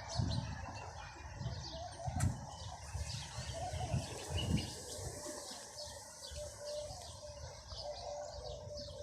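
Birds chirping and calling outdoors: short high chirps over a fainter, lower repeated note, with irregular low rumbling bumps throughout.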